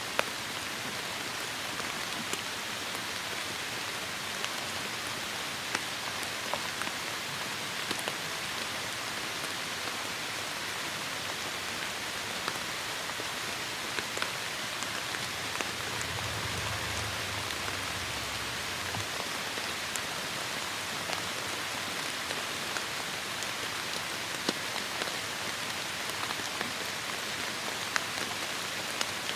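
Heavy rain falling steadily: a dense hiss, with individual drops ticking sharply on a surface. A brief low rumble comes up about halfway through.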